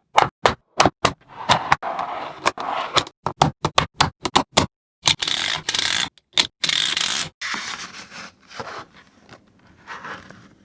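Small magnetic balls clicking sharply as they snap together one after another, then a longer stretch of rattling and scraping as a mass of them is slid and rolled across a hard surface. The sound breaks off abruptly a few times.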